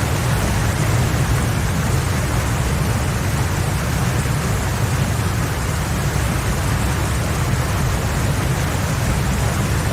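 Loud, steady rush of water, heavy rain or floodwater, with a deep rumble underneath.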